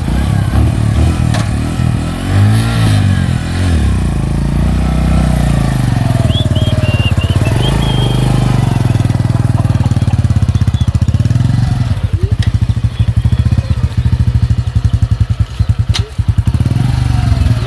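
Small motorcycle engine running just after starting. It is revved up and down a couple of times in the first several seconds, then settles to a steady, fast-pulsing idle.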